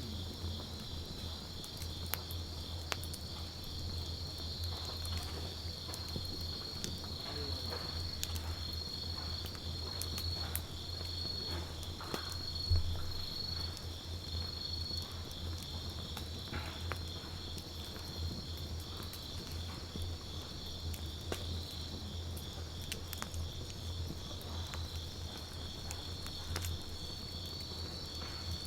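Wood campfire crackling, with scattered sharp snaps and pops, the loudest about 13 seconds in. Behind it, insects chirp steadily in a fast pulsing trill, and a low steady hum runs underneath.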